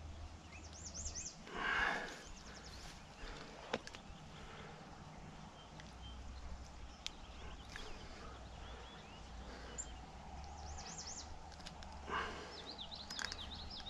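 Small songbirds singing in short runs of quick, high, rising-and-falling notes, about a second in and again near the end, over steady low outdoor background noise. A short noisy rush about two seconds in, the loudest sound, and another near the end, with a few light clicks.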